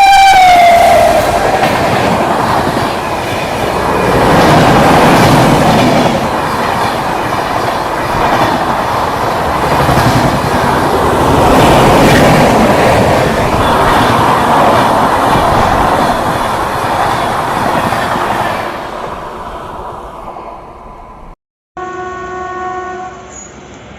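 Indian Railways train passing at speed. Its horn sounds as it arrives and drops in pitch as it goes by, then comes the loud rush and rattle of the coaches for about twenty seconds, fading away. After a sudden cut near the end, a quieter train horn sounds steadily.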